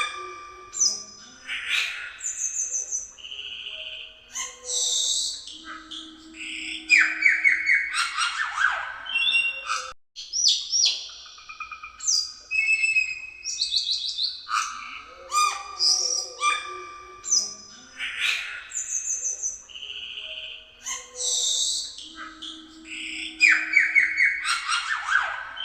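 Cucak keling singing a loud, varied song of clear whistles, chirps and fast trills, the same sequence of phrases coming round again about every ten seconds.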